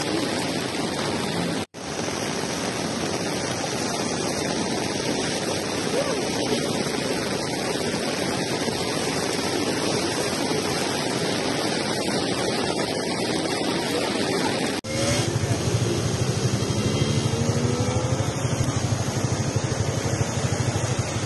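Steady rushing noise of heavy rain and floodwater, broken by two abrupt cuts. After the second cut, about two-thirds of the way in, a vehicle engine runs with a low, pulsing rumble and rising revs.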